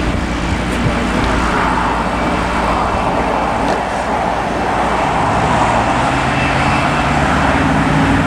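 Loud, steady rush of engine noise from road traffic and aircraft around the airport, with a low engine hum joining about five seconds in and the noise swelling slightly toward the end.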